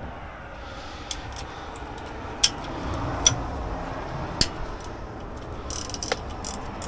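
A handful of sharp, separate clicks and taps of metal parts being handled, over a low steady background hum.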